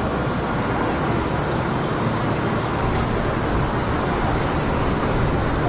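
Steady low rumble and hiss of a boat's engine and moving water as a ferry backs away from its dock on propellers.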